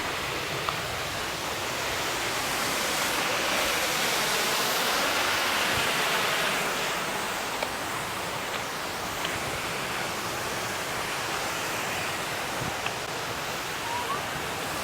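Kilgore Falls, a waterfall, rushing steadily, with a few faint ticks.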